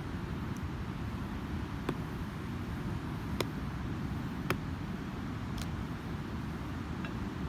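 Wood campfire crackling, with about five sharp pops spread across a few seconds, over the steady rumble and wash of ocean surf.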